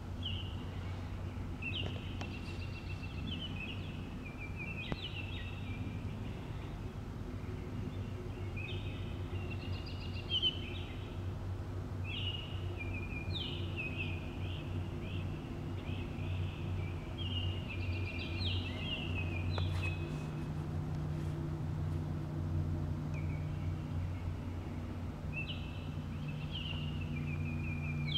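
A songbird singing short, chirpy phrases that repeat every few seconds, over a steady low drone.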